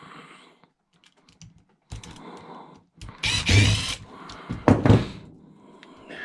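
Tools and parts being handled during a teardown: irregular clicks, knocks and clatter. A couple of louder thunks come around three and a half and five seconds in.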